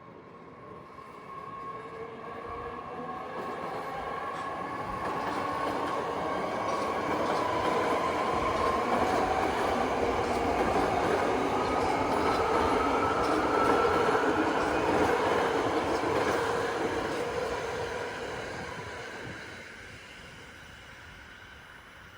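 A BART electric train passing through the station, growing louder over several seconds with a steady whine and wheel noise, then fading away near the end.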